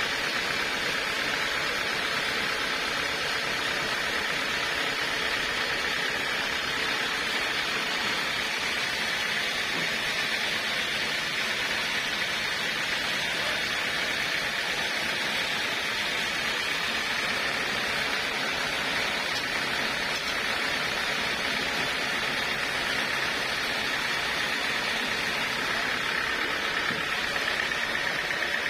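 Portable sawmill running steadily: a constant machine noise with a faint steady whine that does not let up.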